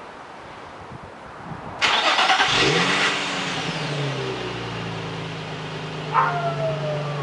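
2006 Nissan 350Z's 3.5-litre V6 on a warm start: the starter cranks a little under two seconds in, the engine catches with a short rise in revs and settles into a steady idle, breathing through an Injen cold air intake and M2 Performance Y-pipe with the stock mufflers. A short higher tone that slides slightly down sounds about six seconds in.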